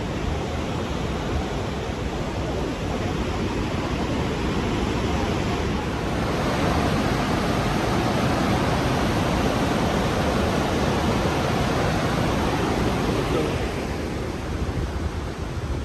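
The Rhine Falls' water crashing down, a steady rushing noise that grows louder about six seconds in and eases again near the end.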